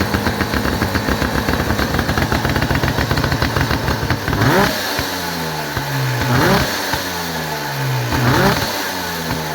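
Motobi two-stroke twin motorcycle engine running with fast, uneven firing, then blipped three times about two seconds apart, each rev rising sharply and falling back.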